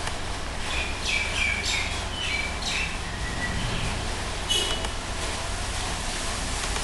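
Short bird chirps, a quick series about a second in and one more after the middle, over a steady hiss and low hum.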